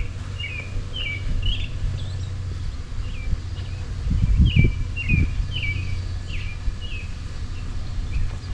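Small bird chirping repeatedly in short, quick notes, over a steady low rumble, with a couple of low thumps about four and five seconds in.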